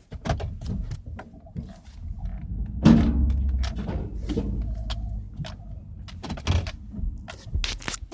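Truck engine running low under a string of knocks and rattles from the cab while the truck manoeuvres. A heavy thump about three seconds in is the truck striking a small post.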